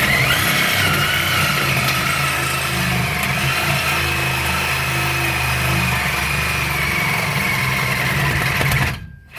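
Cordless reciprocating saw running hard as it cuts through the truck's steel exhaust pipe, its motor whine sagging slightly under load. It starts suddenly and stops suddenly near the end.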